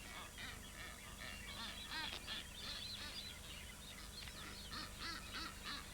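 Faint bird calls: many short chirps and calls overlapping throughout, over a low steady hum.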